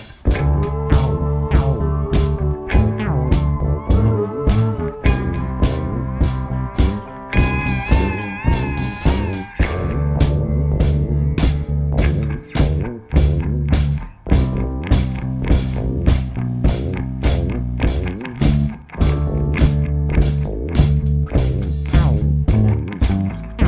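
Live rock jam: electric guitar playing held, bending lead notes over bass and a steady drum-kit beat.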